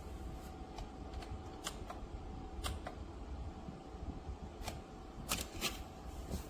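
Small personal air cooler's fan running with a steady hum, with about a dozen light clicks scattered irregularly over it.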